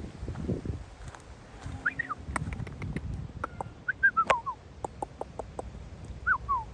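Short, high squeaky calls from a small animal, each falling in pitch, coming singly and in pairs, over scattered sharp clicks.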